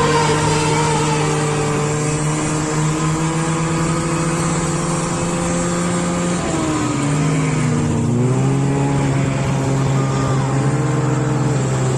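Snowmobile engine running steadily at a constant pitch. About seven seconds in, the engine note drops as it eases off, then picks back up and holds steady again.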